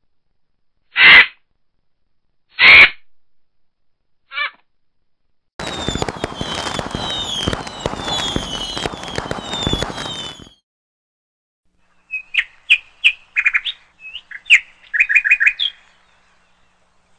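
Birds calling. A few short, loud squawks come first, then a stretch of repeated falling chirps over crackle, then a quick run of chirps. Each part starts and stops abruptly, with dead silence between them.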